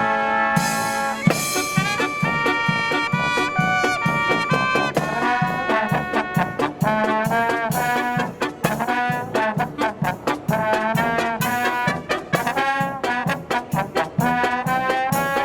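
Brass marching band playing live: trumpets and trombones carry the tune over a steady bass beat of about two pulses a second and drums.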